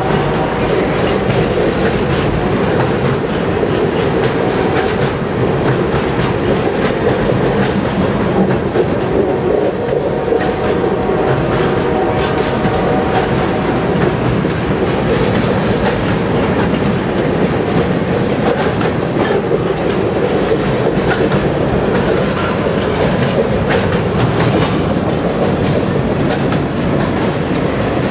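Freight train boxcars rolling past: a steady rumble of steel wheels on rail, with a continuous clickety-clack of wheels passing over rail joints.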